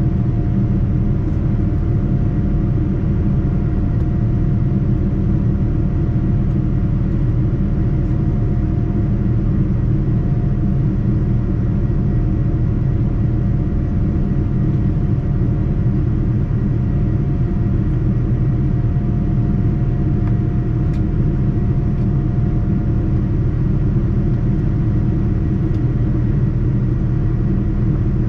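Steady low rumble of a Boeing 787-9's engines and airflow heard inside the passenger cabin, with a faint steady hum above it.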